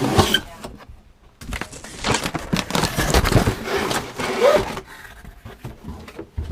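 Packaging crinkling and rustling while a boxed RC truck is unpacked, with a few sharp handling knocks; the loudest stretch of rustling runs from about a second and a half in to nearly five seconds.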